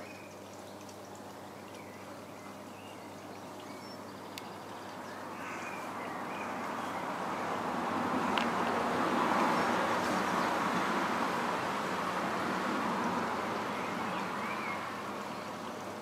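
Faint short bird chirps over outdoor background noise. A broad rushing noise swells from about five seconds in, is loudest around the middle and slowly fades.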